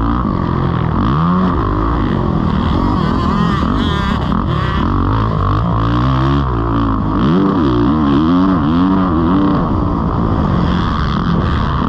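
Kawasaki KX450 dirt bike's single-cylinder four-stroke engine being ridden hard, revving up and dropping back over and over, its pitch rising and falling every second or two.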